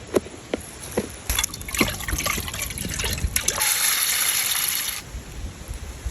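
Scattered sharp clicks, then something being poured in a steady hissing trickle for about a second and a half past the middle.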